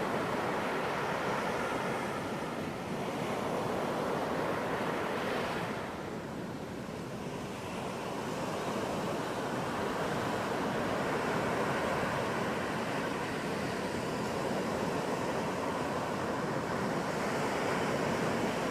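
Ocean surf washing onto a beach: a steady rush of breaking waves that swells and eases, with a brief lull about six seconds in.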